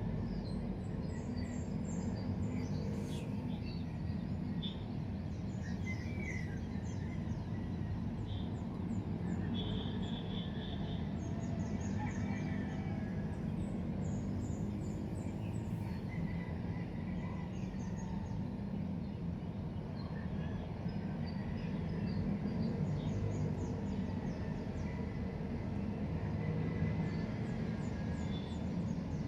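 Small birds chirping and trilling in short scattered calls over a steady low background rumble.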